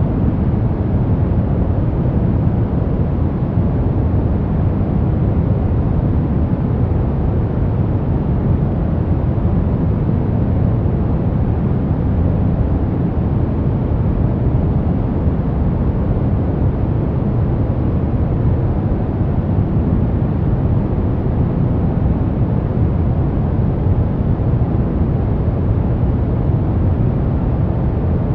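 Steady white noise for baby sleep, weighted toward the low end with little treble, giving a deep, even rush that does not change.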